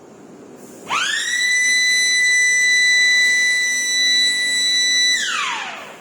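A high whine from the tilting furnace equipment during one step of its angle operation: it winds up quickly about a second in, holds one steady pitch for about four seconds, then winds down near the end.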